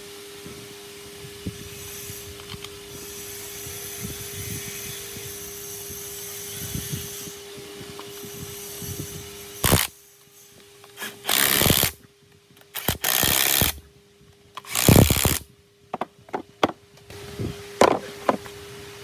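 A power tool running in a few short, loud bursts, starting about ten seconds in, over a steady hum and workshop clatter.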